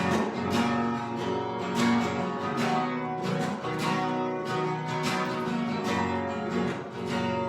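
Acoustic guitar strumming steady chords, about two strokes a second, in an instrumental break of a worship song.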